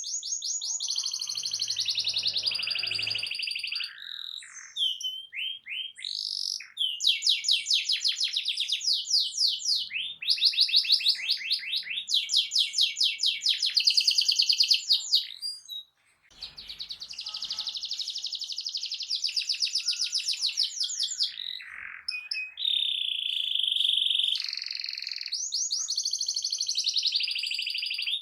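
Domestic canary singing loudly in long, fast trills and rolls of rapidly repeated notes, phrase after phrase, with a brief break about sixteen seconds in.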